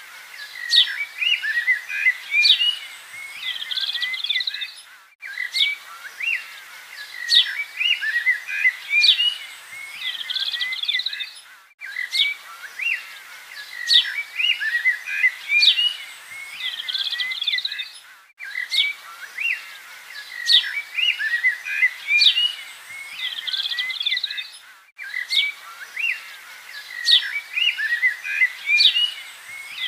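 Looped recording of birdsong: the same few seconds of chirps and whistles repeat about every six and a half seconds, with a brief break at each join.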